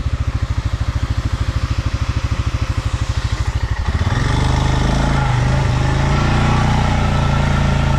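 Stels Leopard 650YL ATV engine idling with an even pulse, then revved up about four seconds in and held at higher revs.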